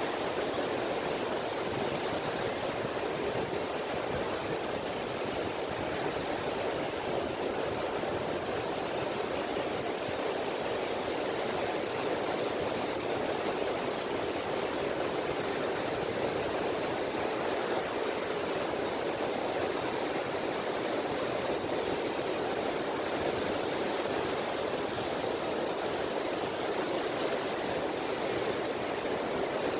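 Small sea waves (sazanami) washing on a beach: an even, steady wash of water with no separate breakers standing out.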